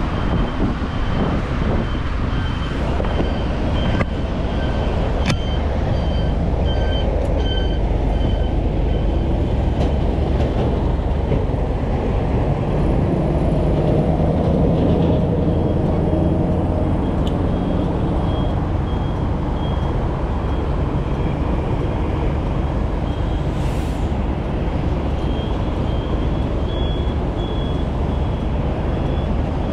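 Wind rumble and road noise on a bicycle-mounted GoPro while riding a mountain bike, loud and steady throughout, swelling around the middle. A faint high-pitched chirp repeats on and off through it.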